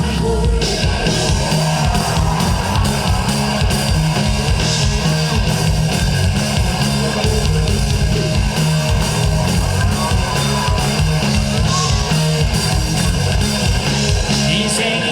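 Live rock band playing loudly: electric guitar over bass guitar and drums, with a steady repeating bass line.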